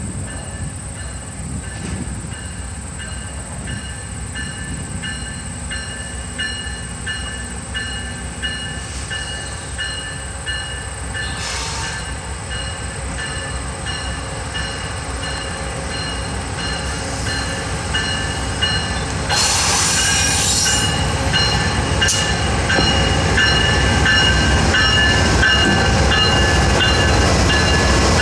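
Passenger train approaching on the rails, its low rumble growing steadily louder, with evenly repeating high-pitched tones over it and a brief burst of hiss about twenty seconds in.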